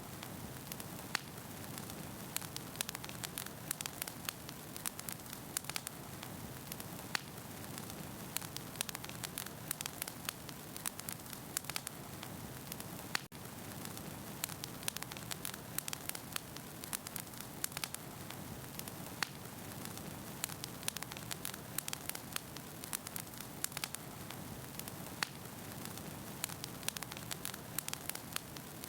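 Wood fire burning in a fireplace: a steady low rushing hiss with frequent sharp crackles and pops of the burning logs, and one brief drop-out about halfway through.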